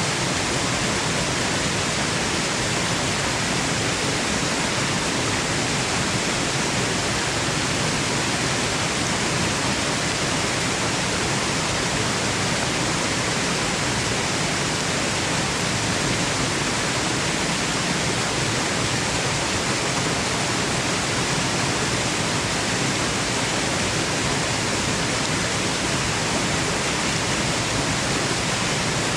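Steady rushing of a waterfall, an even, unchanging wash of falling water.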